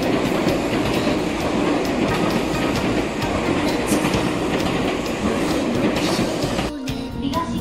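Tobu 200 series limited express train passing close by, its wheels and cars making a steady rolling rail noise. The sound cuts off suddenly near the end.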